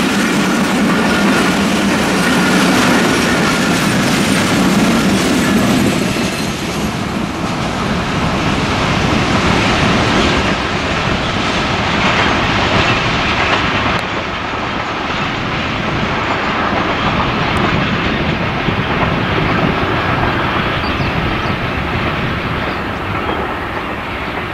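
Intercity passenger train's coaches rolling past on the rails, wheels clattering over the rail joints. The sound loses its hiss after about seven seconds and fades slowly as the train draws away.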